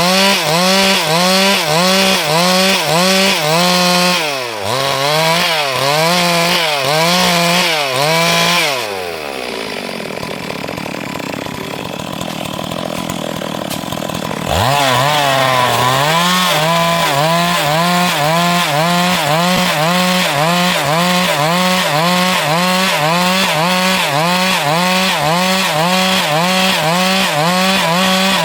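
Stihl MS 382 two-stroke chainsaw running at high revs while cutting wood, its pitch rising and falling about twice a second as the chain bites. About a third of the way in, the pitch falls away and the saw runs lower and quieter for several seconds. About halfway through, it revs sharply back up and resumes cutting.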